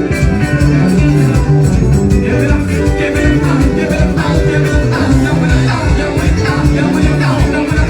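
A band playing upbeat dance music with a steady beat, bass notes and singing.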